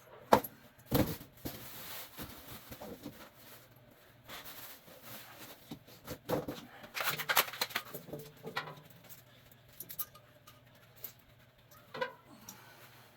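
Irregular clinks, knocks and rattles of metal tools and furnace parts being handled, with one sharp knock just after the start and a busy spell of clatter around the middle.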